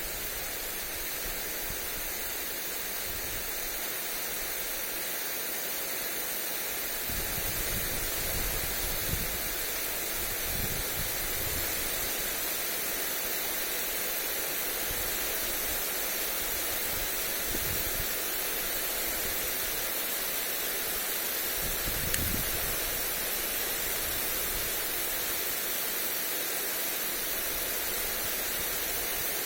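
Lawn sprinkler spraying water onto grass: a steady hiss. Wind gusts buffet the microphone a few times, in the first half and again past the middle.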